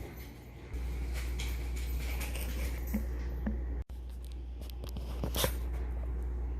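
Pencil scratching on paper in short, light strokes, a little louder about five seconds in, over a steady low hum that starts under a second in.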